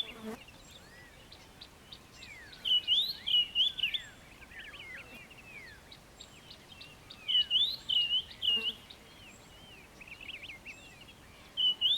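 Several wild birds singing in bush. One bird repeats a loud phrase of about four clear whistled notes three times, roughly four seconds apart, and softer twittering and sliding calls of other birds fill the gaps between.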